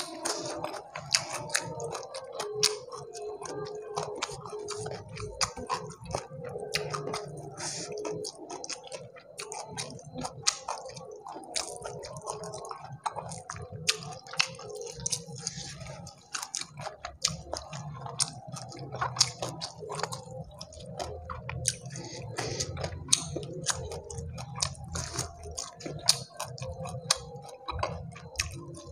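Close-miked chewing of fried chicken and rice eaten by hand, with constant wet smacking and many sharp little clicks and crunches.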